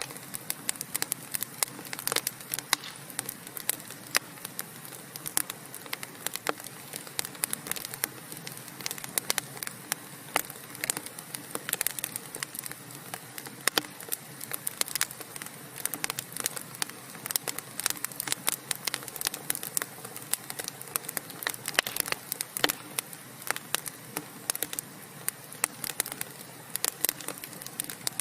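Wood fire burning in a fireplace, logs crackling with frequent irregular sharp pops over a steady low hiss.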